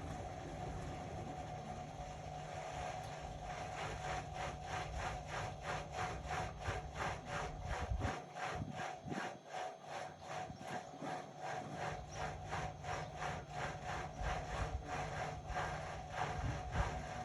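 Indesit Innex BWE 91496X front-loading washing machine running with its drum turning: a steady motor whine under a rapid, even swishing rhythm of about three strokes a second that starts a few seconds in.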